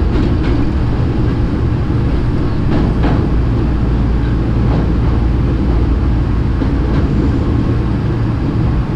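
Hankyu electric commuter train running on the rails: a steady low rumble with a few sharp clicks as the wheels pass over rail joints and points.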